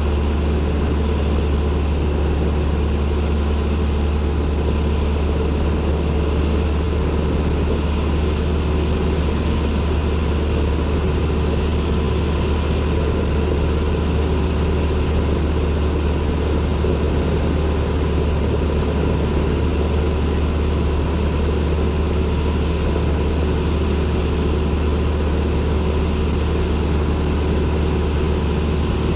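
Cessna 172N's four-cylinder Lycoming engine and propeller running at a steady, unchanging drone, heard from inside the cockpit.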